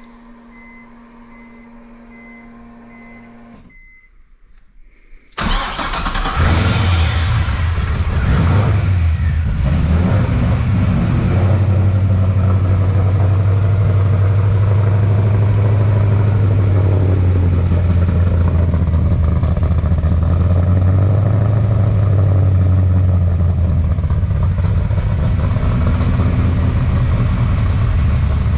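An LS V8 engine swapped into a BMW E46 is started about five seconds in, after some faint beeping and a brief hush. It catches suddenly and settles into a loud, steady idle through its freshly built exhaust.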